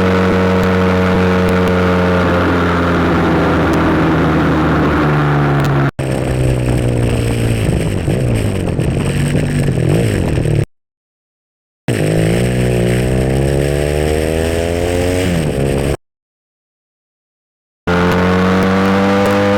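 SBM 400 motorcycle engine running under way: a steady cruise for several seconds, then rising and falling in pitch as it accelerates and revs through the gears. The sound cuts out twice to complete silence for about a second each, then returns to a steady cruise near the end.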